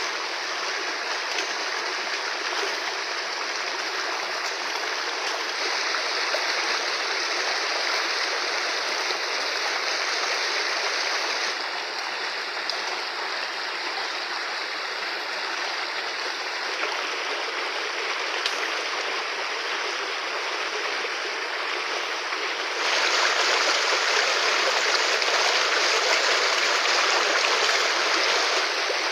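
Fast-flowing river water rushing steadily, its level shifting abruptly a few times and loudest over the last several seconds.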